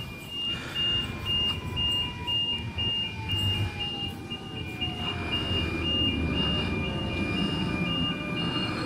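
Sydney Trains Millennium electric train pulling into the platform over a steady rumble of wheels on rail, its motor whine falling in pitch as it slows over about five seconds. A level crossing warning bell rings throughout in an even, alternating two-tone ding.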